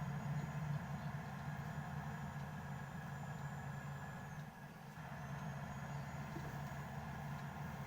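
Car interior noise while driving: a steady low engine hum with road and tyre noise, dipping briefly about halfway through.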